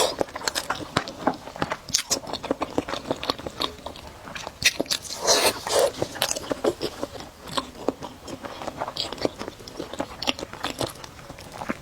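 A person eating spicy noodles and eggs, close to the microphone: chewing and biting with many small wet clicks, and a longer noisy burst about five seconds in.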